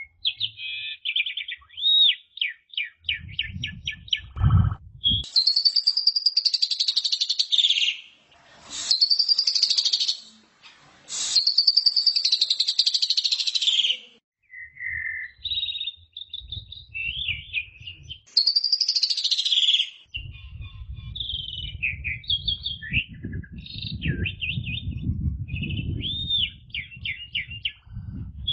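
Asian pied starling singing a long, varied song: quick chattering trills and whistled notes mixed with harsh, rasping screeches, the harshest phrases about five to fourteen seconds in and again around eighteen seconds. A low rumble runs underneath in the last third.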